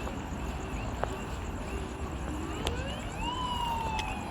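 Siren wailing over steady street noise: about two seconds in it rises in pitch over about a second, then slowly falls. A few sharp clicks are also heard.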